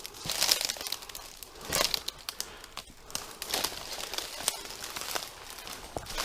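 Footsteps crunching and rustling through leaf litter and undergrowth: irregular crinkling steps, the loudest about half a second and two seconds in.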